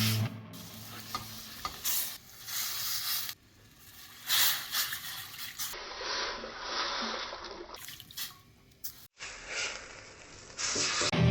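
Food sizzling in a frying pan, with some stirring, in a few short clips that cut abruptly from one to the next.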